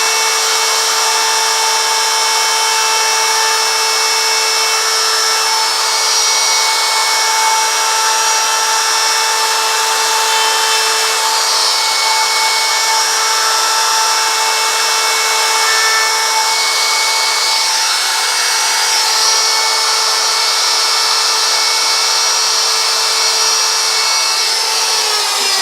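Handheld high-speed rotary carving tool running steadily with a constant whine as it cuts into wood, carving out sign letters. Right at the end the pitch drops as it is switched off and spins down.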